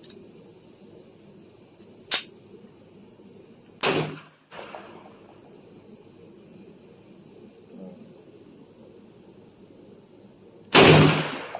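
Three pistol shots, well spaced: a sharp crack about two seconds in, a second shot about two seconds later, and the loudest near the end, the last two each with a short echoing tail. Insects chirp steadily and evenly in the background.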